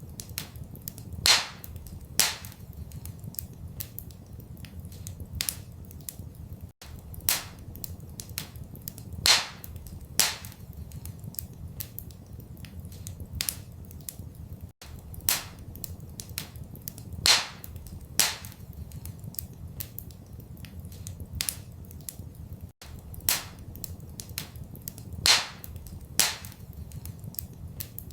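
Wood fire crackling in a fireplace: irregular sharp pops and snaps, a few much louder than the rest, over a low steady rumble. The same pattern of pops repeats about every eight seconds.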